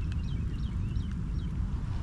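Small bird chirping: a quick run of short, high, sliding notes that stops about a second and a half in, over a steady low rumble.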